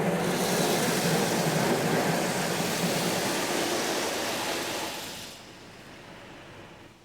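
Automatic car wash spraying water over the car: a steady rushing hiss that fades away about five seconds in.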